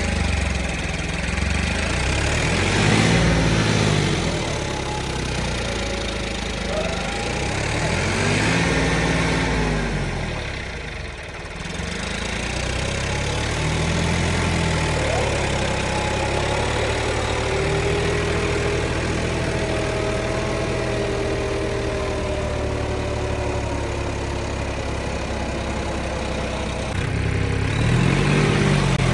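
Tractor diesel engines running under load, revving up and down in repeated surges with a brief easing off about a third of the way through.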